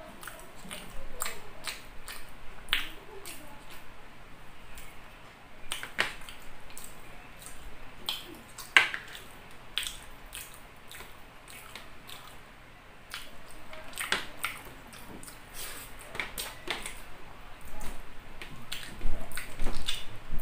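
Close-up eating sounds: a man chewing rice and chicken liver adobo, with irregular wet lip smacks and mouth clicks that grow busier and louder near the end.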